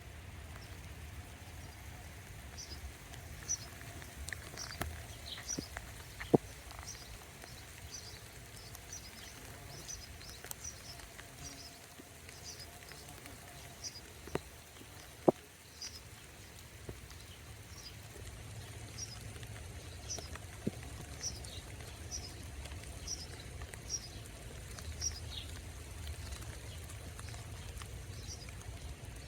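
Rainy outdoor ambience with a small bird repeating a short, high chirp over and over, about one to two a second. A few sharp taps stand out, the loudest two about six and fifteen seconds in.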